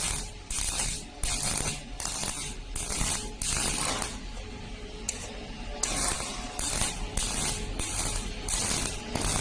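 MIG welding arc crackling in short repeated bursts, about one or two a second, as in stitch or tack welding, with a longer unbroken burst about three and a half seconds in.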